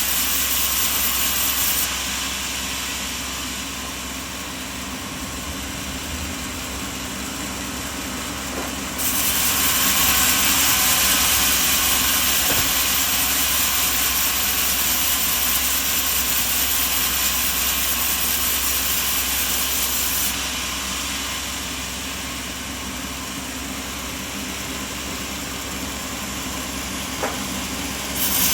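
Steady machinery noise, a loud hiss over a low hum. It drops and rises in level abruptly several times, as between separate takes.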